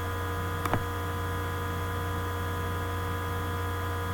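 Steady electrical mains hum and buzz, with a couple of faint clicks under a second in.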